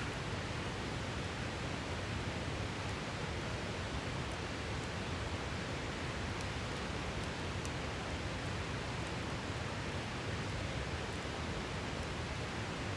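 Steady rushing of a river, with faint, scattered crackles from a wood campfire.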